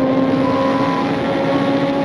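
Police patrol car running at high speed: a steady rush of road and wind noise with an engine note that climbs slowly as it accelerates.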